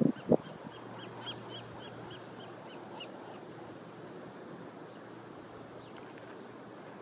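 A small bird calling a rapid series of about a dozen short, evenly spaced high notes, about four a second, that stops about three seconds in. A single loud thump just after the start.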